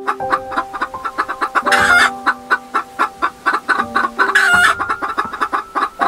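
A broody speckled hen with chicks beneath her, clucking in a quick run of short clucks, about four or five a second, with two louder, longer calls about two seconds in and again past the middle. Background music with held notes plays underneath.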